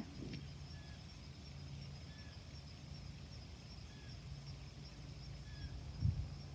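Faint outdoor ambience: a steady high insect trill, with short faint chirps repeating every second and a half or so over a low steady hum, and a soft low knock near the end.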